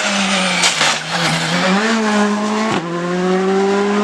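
Rally car engine at high revs, its note held steady and then briefly cut by a gear change about three quarters of the way through, after which it climbs again as the car accelerates. Tyre noise runs underneath.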